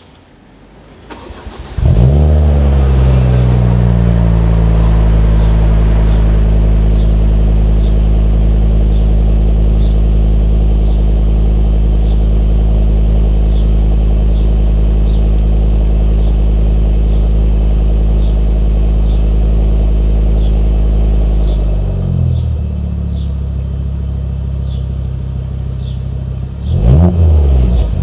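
Ford Mondeo Mk4 2.5T's turbocharged five-cylinder engine starting through a custom exhaust: it catches about two seconds in with a flare of revs, holds a steady fast idle, then drops to a lower idle after about twenty seconds. Near the end there is one short rev. A faint regular ticking runs underneath.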